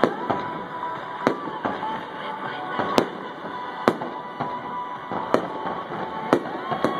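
Aerial fireworks shells bursting: about half a dozen sharp bangs spaced a second or so apart, the loudest two about three and four seconds in.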